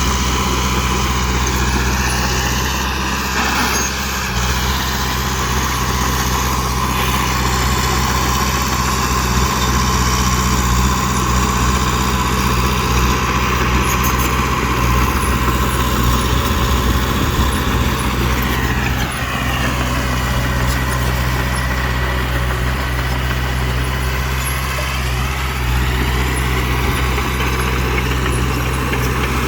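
Heavy dump truck engine running steadily at a low pitch, with a higher whine that drops and then climbs again about two-thirds of the way through.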